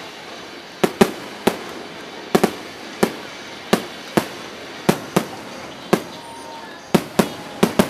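Aerial firework shells bursting overhead in quick succession: about fifteen sharp bangs at uneven intervals, sometimes two close together, each trailing off in a short echo.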